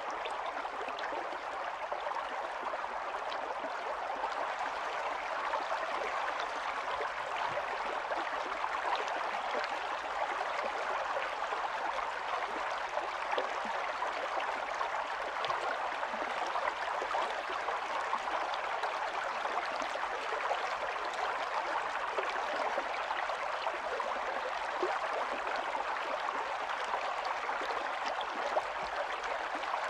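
Small stream running steadily over stones, a constant rush of water with fine splashing and gurgling.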